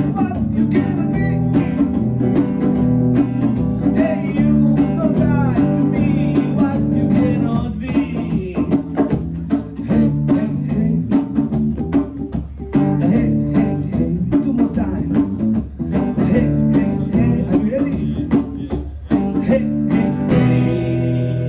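Live rock band of electric guitar, bass guitar and drums playing a song with a steady drum beat. The drums stop about twenty seconds in, leaving a final chord ringing.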